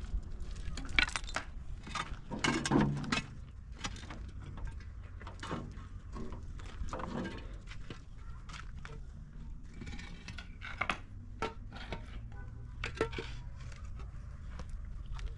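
Scattered light knocks and clicks at irregular intervals over a steady low rumble.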